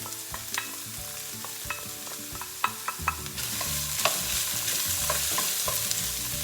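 Minced water chestnuts, mushrooms and garlic sizzling in hot oil in a frying pan, with light clicks and taps of a utensil and containers. The sizzling grows louder a little over three seconds in.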